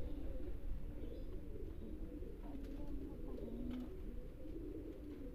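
Domestic pigeons cooing steadily, several low wavering coos overlapping, with a sharp click near the end.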